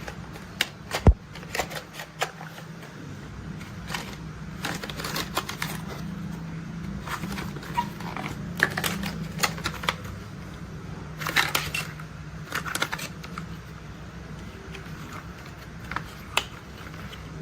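Plastic toy construction vehicles being handled, giving irregular clicks and clatters, some in quick clusters, over a steady low hum.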